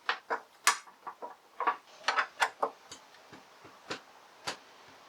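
Irregular sharp clicks and knocks, about fifteen in five seconds, as hand tools work at a 50cc motorcycle's plastic trim and its fasteners to take the piece off.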